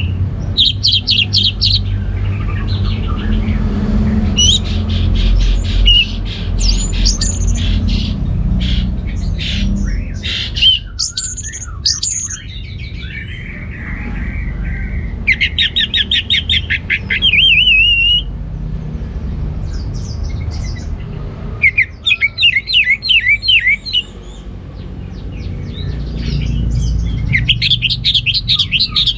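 Orange-headed thrush singing loud, fast, varied phrases in bursts every few seconds, some as rapid trills, over a steady low background rumble.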